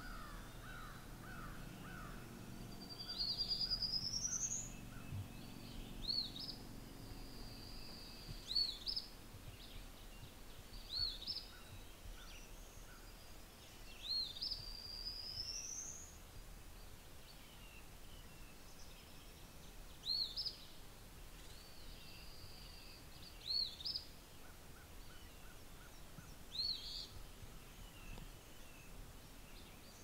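Songbirds singing: a long rising trill twice, about ten seconds apart, and short upswept notes every few seconds, all faint and high-pitched.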